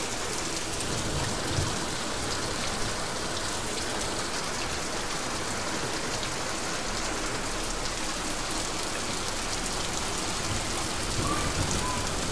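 Heavy rain pouring onto flooded paving and leaves: a steady, even hiss of drops splashing into standing water.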